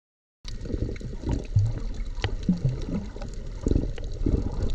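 Water sounds recorded underwater: muffled sloshing and gurgling with scattered clicks and a few short low bubbling blips. It starts abruptly about half a second in, after silence.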